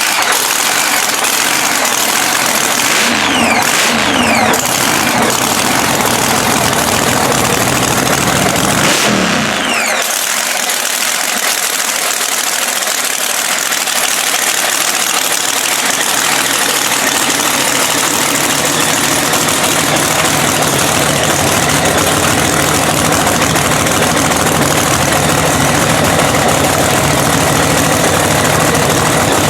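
Freshly rebuilt supercharged Hemi drag-racing engine running loudly just after a restart. It is revved a few times in the first ten seconds, the pitch falling away after each rev, then settles into a steady idle.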